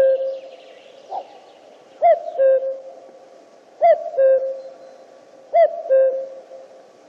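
Male common cuckoo calling its two-note falling "cuck-oo", a higher note followed by a lower one. The call repeats about every second and three-quarters, with three full calls in a row.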